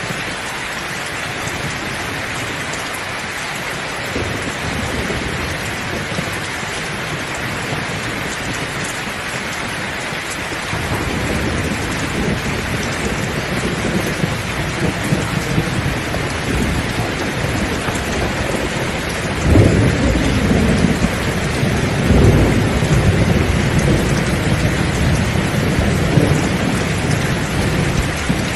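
Heavy rain falling steadily, with thunder rumbling in about a third of the way through and swelling in two louder rolls later on.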